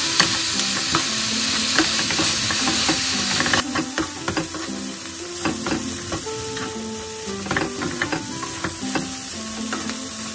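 Dried anchovies and chili peppers stir-frying in oil in a nonstick pan: a steady sizzle with frequent light clicks and scrapes of the spatula tossing them. The sizzle is loud at first and drops off sharply about three and a half seconds in.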